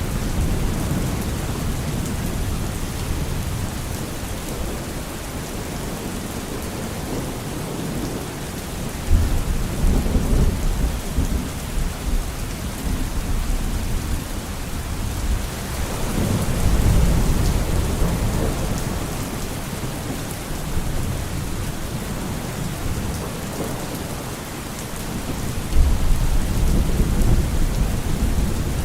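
Steady rain with rolls of thunder rumbling low underneath: one breaks abruptly about nine seconds in, another swells up a little past halfway, and a third breaks sharply near the end.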